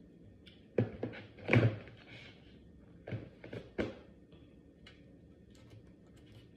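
Takeout food containers being handled and set down on a tray: a handful of short knocks and thunks, the loudest a heavy thud about one and a half seconds in.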